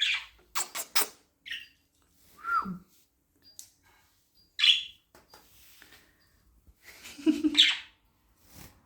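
Budgerigar giving scattered short chirps and squawks, one of them sliding down in pitch, with a few sharp clicks about a second in.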